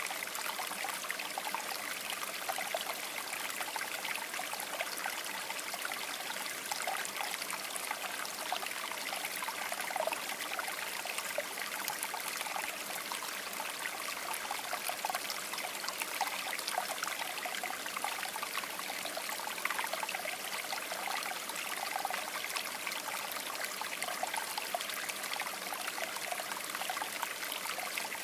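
River water babbling steadily over stones, a continuous rush with small splashes and gurgles.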